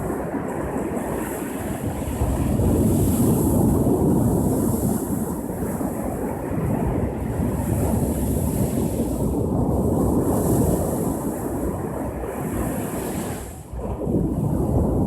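Ocean surf breaking and washing up the shore in rolling swells, with wind on the microphone; a short drop in level about three-quarters of the way through before the surf returns.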